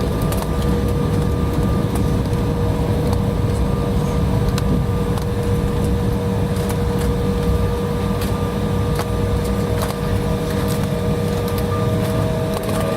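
Jet airliner cabin noise just after landing at taxi: a steady low rumble with a steady whine, and occasional faint clicks.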